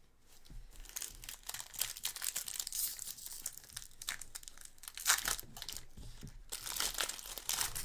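A Pokémon booster pack's foil wrapper being torn open and crinkled by hand, a busy irregular crackle with a short pause near the end.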